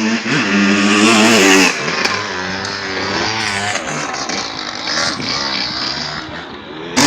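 Motocross motorcycle engines revving as they ride the dirt track, the pitch rising and falling with the throttle; loudest about a second in, then dropping back.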